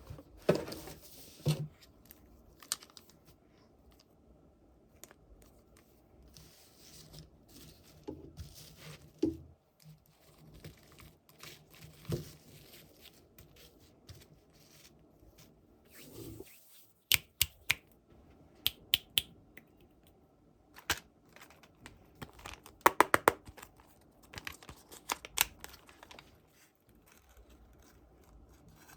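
Toy packaging being unwrapped by hand: wrapping tearing and crinkling in short bouts, with scattered sharp clicks and snaps of small plastic parts, the clicks coming thickest about two thirds of the way through.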